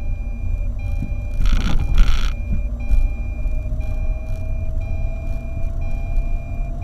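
Car on the move recorded by a dashcam: steady low road and engine rumble with a faint whine slowly rising in pitch. Two short whooshes about one and a half and two seconds in.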